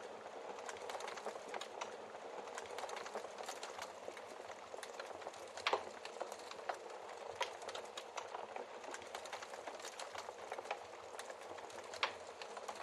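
Wood fire crackling in a fireplace: a steady hiss of flame with frequent small snaps, and two louder pops, one about six seconds in and one near the end.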